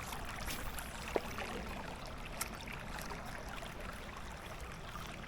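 River water running steadily, with two faint clicks, about a second and about two and a half seconds in.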